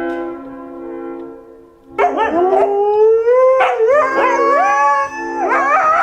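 Dog howling in long, wavering notes that rise and fall in pitch, starting about two seconds in, over background music.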